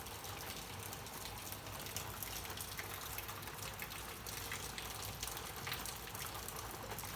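Steady rain, with many separate drop hits ticking through it.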